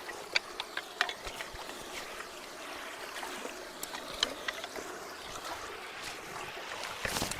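Water running steadily through a partly clogged culvert, with scattered sharp clicks and knocks and a louder burst of knocking near the end.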